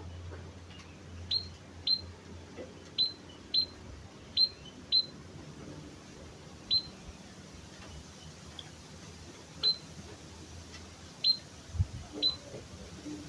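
White-headed munia (emprit kaji) giving short, high, thin call notes, each slurring slightly downward, about a dozen at uneven intervals. A soft low knock sounds near the end.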